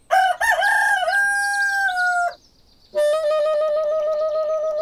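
Rooster crowing twice, each crow ending in a long held note; the second crow is lower and steadier than the first.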